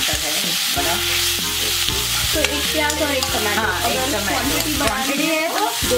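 Chopped onions and tomatoes sizzling in ghee in a black wok-style kadhai, stirred and scraped around the pan with a steel spoon. The onions are browned and the tomatoes are just added. Faint background music with pitched, wavering lines runs underneath.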